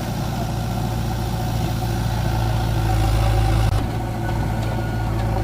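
Diesel engine running steadily at low revs, an even low hum.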